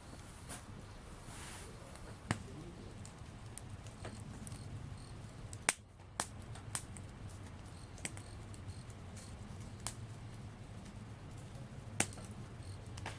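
Wood campfire crackling, with irregular sharp pops over a steady low rush, a few of them louder than the rest.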